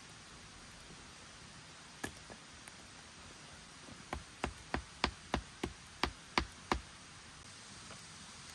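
A single sharp knock about two seconds in, then a quick run of about ten sharp knocks, around three a second, that stops about seven seconds in. These are repeated striking blows, as in bushcraft work on wood.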